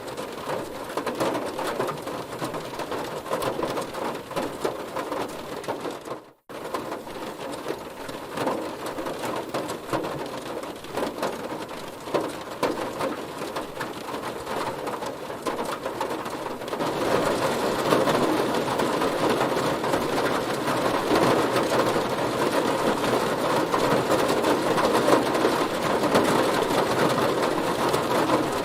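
Heavy rain drumming on a car, a dense patter of drops. It cuts out for a moment about six seconds in, then comes back, and from about seventeen seconds it grows heavier and louder.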